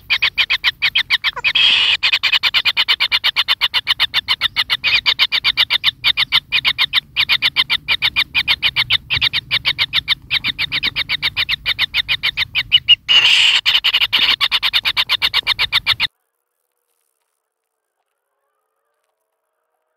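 Kingfisher nestlings giving rapid, repeated chirping calls, several a second, loud and unbroken until the sound cuts off suddenly about sixteen seconds in.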